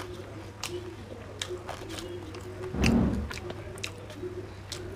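A person chewing a mouthful of rice and curry with wet mouth clicks and smacks, and a dull low thump about three seconds in.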